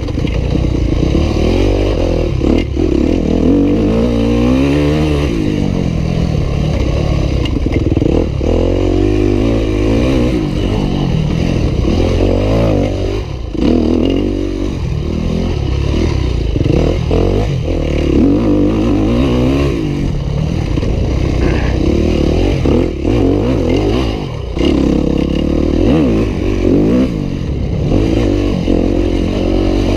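Yamaha YZ250F four-stroke single-cylinder dirt bike engine revving up and down over and over as the bike is ridden hard, the pitch climbing through each gear and falling as the throttle closes. There are short dips when the throttle is chopped.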